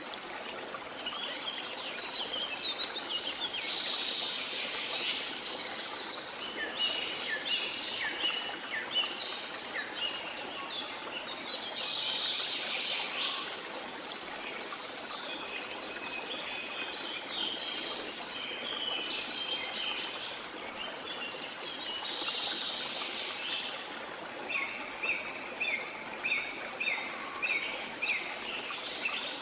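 Several birds singing and calling over the steady rush of falling water. Near the end one bird gives a quick run of short, evenly repeated notes.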